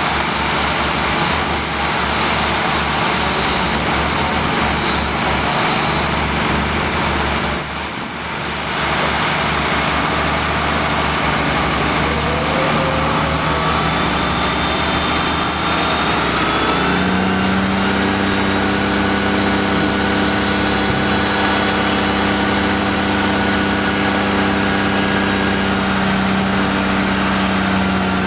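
Engine machinery running continuously. About halfway through, a loud, steady, even-pitched engine drone sets in and holds.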